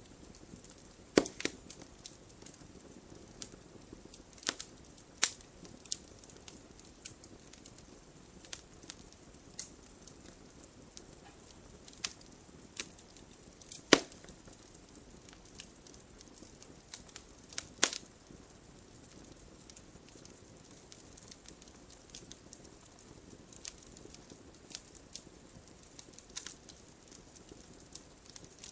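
Wood fire crackling: irregular sharp pops and snaps over a low, steady hiss, with a few louder snaps, the loudest about halfway through.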